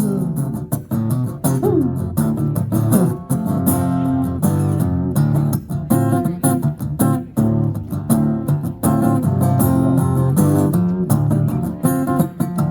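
Guitar strumming chords in a steady rhythm, live rock-blues music with no singing.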